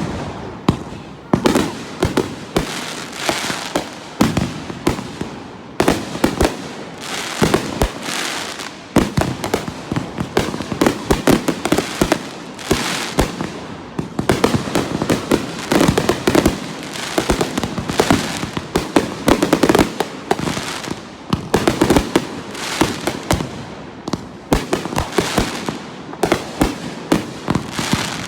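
Fireworks show in full barrage: a rapid, continuous run of aerial shell bangs and crackling bursts, many a second, with no pause.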